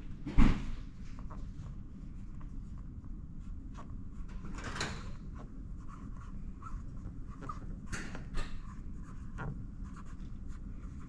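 A thump about half a second in, then scattered light knocks and clicks over a low steady hum.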